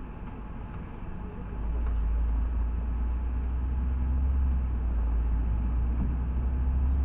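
Inside a LiAZ 6213.65 articulated city bus on the move: low engine and road rumble, which swells about a second and a half in and then runs on steadily.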